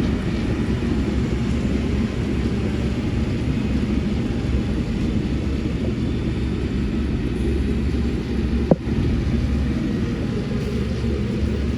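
Heavy diesel construction machinery running steadily, a deep engine sound, with a single sharp click about nine seconds in.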